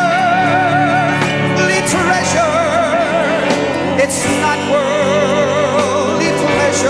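Gospel singing: voices holding long notes with a wide vibrato over steady accompaniment.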